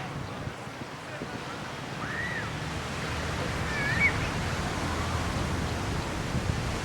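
Ocean surf washing onto the shore, a steady rush that swells louder through the middle. A couple of faint, short high calls sound over it.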